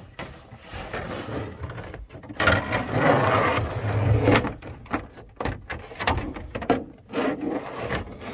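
Stiff plastic dashboard overlay being worked into place over a vehicle's dash top: a stretch of rubbing and scraping of plastic on plastic, then a run of clicks and knocks as it is pressed and tapped down.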